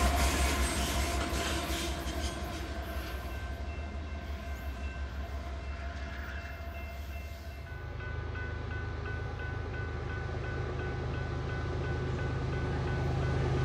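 A train rolling past and moving away, its wheels clicking rhythmically over the rail joints as it fades. About two thirds of the way through, a low locomotive rumble takes over and builds.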